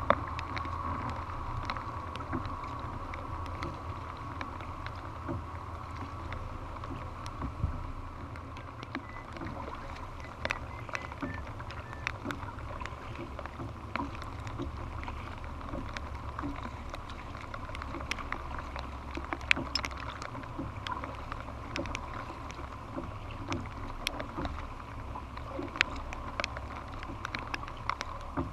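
Sea kayak under way: paddle splashes and water moving along the hull over a steady low rumble of wind on the microphone, with scattered sharp ticks and knocks.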